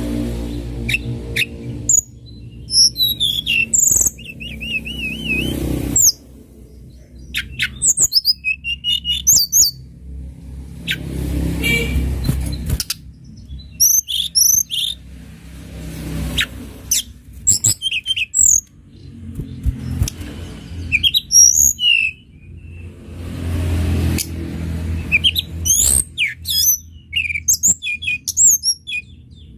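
Tledekan gunung songbird singing: phrases of sharp, high chirps and short trills every few seconds, one warbling trill about four seconds in. A low rumble comes and goes underneath.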